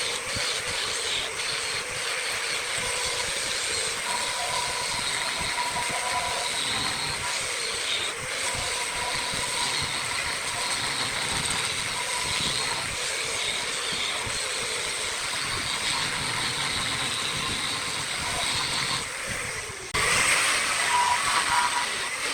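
Wood lathe running while a turning tool cuts the spinning wood, a steady hissing, scraping noise. It breaks off abruptly near the end and starts again louder.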